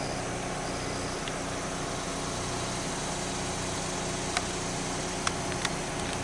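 Vehicle engine running with a steady hum and noise, and three short sharp clicks a little past the middle.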